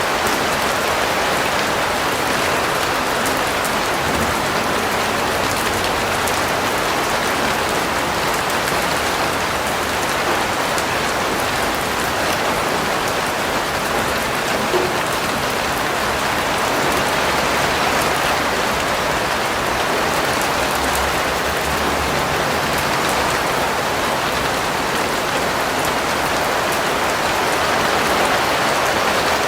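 Steady rain falling and pattering on a surface, a constant even rush with no breaks.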